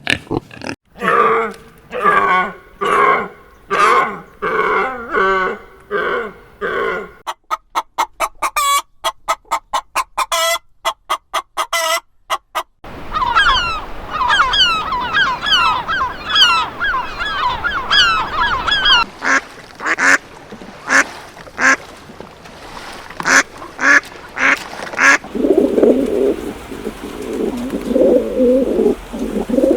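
Farm birds calling in a string of separate clips. First comes a run of repeated honking calls about two a second. Then a fast train of short clicky calls, then a flock of quick high chirps, then sharp separate calls, and lower calls near the end.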